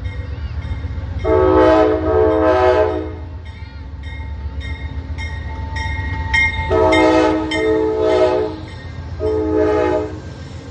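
Locomotive air horn sounding a chord of several tones in three blasts, two long and then a shorter one, over the steady low rumble of a passing train.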